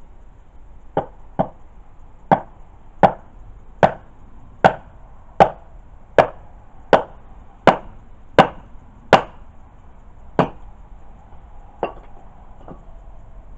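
Wood being chopped with a blade: about fifteen sharp strikes at a little over one a second, spacing out and getting softer near the end.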